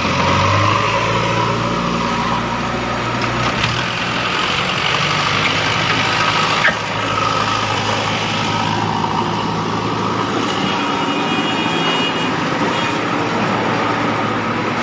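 Heavy construction vehicle's diesel engine running steadily, a continuous rumble that stays much the same throughout.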